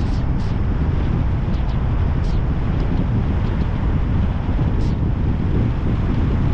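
Steady wind rumble on the microphone over the road noise of a car driving, with a few short faint ticks scattered through.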